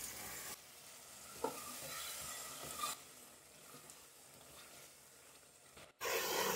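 Quiet sizzling of chicken in a spice masala being fried and stirred with a spatula in a non-stick pot, with a couple of small knocks of the spatula against the pot. This is the bhuna stage, the masala frying with a splash of water so it won't burn. The sizzle gets louder about six seconds in.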